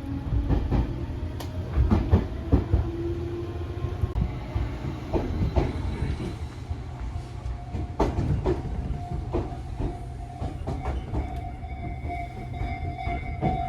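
Inside a Fujikyu Railway electric train's carriage while it runs: a steady low rumble with repeated sharp clicks from the wheels over rail joints. A motor whine rises in pitch over the first few seconds as the train picks up speed, and a steady higher tone comes in about eight seconds in.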